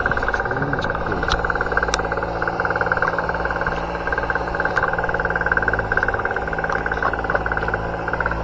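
Boat engine running steadily at a low, even speed, a continuous drone with a fine regular pulse.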